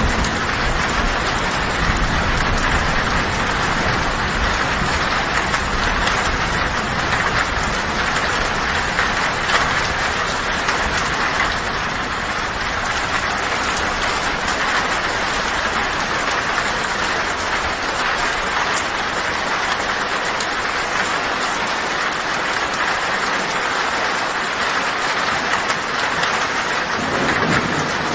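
Heavy rain pouring steadily on a tin roof. A low thunder rumble runs under it in the first half and fades out, and another rumble starts near the end.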